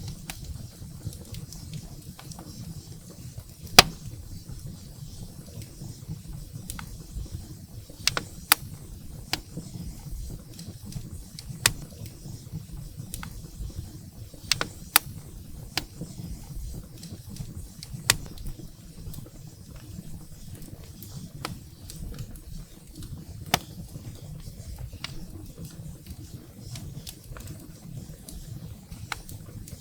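Wood fire burning in a fireplace: a low steady rumble of the flames with irregular sharp crackles and pops from the burning firewood, the loudest pop about four seconds in.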